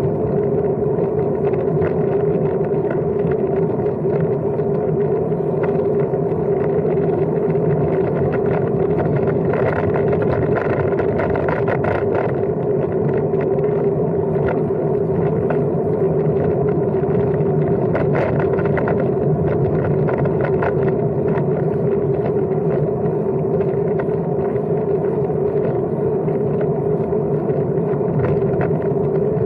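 Steady riding noise from a Brompton folding bicycle rolling along a track, with a constant hum running underneath.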